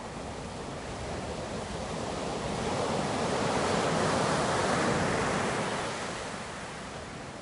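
Ocean surf: a wave builds, breaks and washes, its rush swelling to a peak about halfway through, then easing off as the water recedes.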